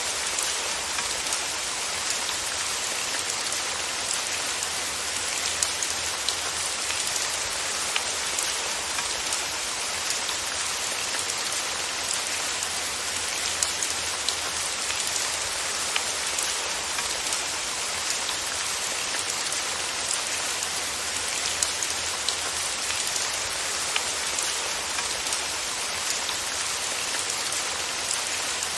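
Steady rain: an even hiss with scattered sharper drop ticks throughout.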